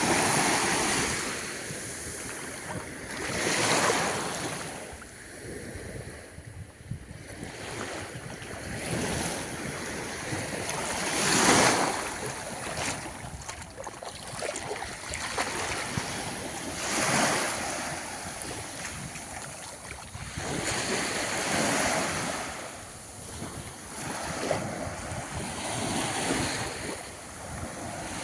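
Small waves breaking and washing up a sandy beach, each surge swelling and fading every few seconds, with some wind on the microphone.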